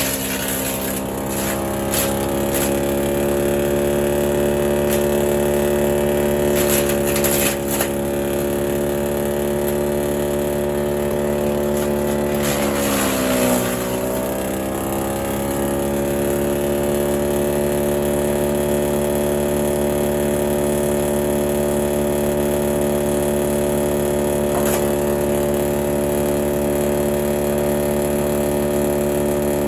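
Petrol garden shredder's engine running steadily, its pitch dipping briefly and recovering about halfway through, with a few sharp cracks here and there.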